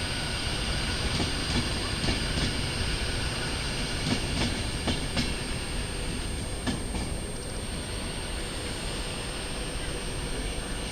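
A passenger train running along the rails, its wheels clicking over rail joints with some wheel squeal; the clicks stop about seven seconds in and the rumble eases off.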